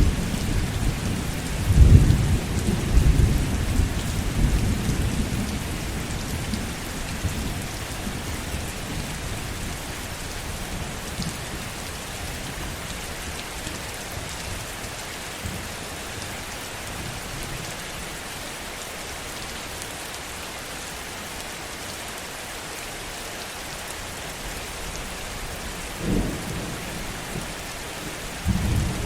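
Heavy rain falling steadily, with thunder rumbling deep and loud a couple of seconds in and fading away over the next few seconds. Brief rumbles of thunder return near the end.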